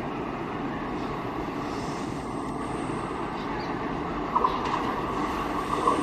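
Indian Railways WAP-4 electric locomotive and its passenger coaches running steadily on the approach. About four seconds in, a steady high-pitched tone sets in and holds.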